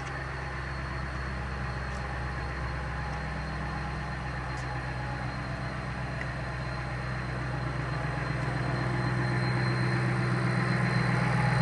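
A low, steady motor hum, growing louder over the last few seconds.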